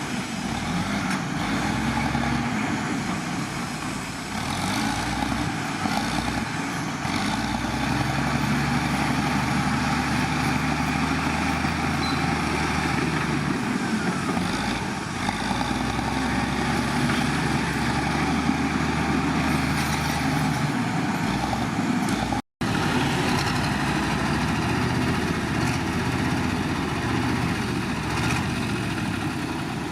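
Heavy diesel engines of earthmoving machinery running under work, a steady low drone whose pitch shifts as the load changes. The sound cuts out for an instant about two-thirds of the way through.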